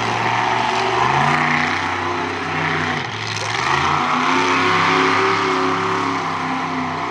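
Monster truck engine revving hard: its pitch climbs about a second in, drops near three seconds, then climbs again and holds high.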